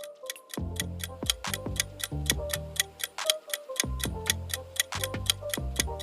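Quiz countdown: clock-like ticking, about four ticks a second, over a light backing tune with repeating bass notes.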